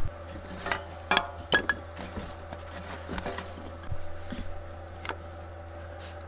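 A few sharp metallic clinks and knocks with a brief ring, loudest about a second in, then lighter taps, from the metal parts of a wood-burning stove being handled as it is lit. A steady low hum runs underneath.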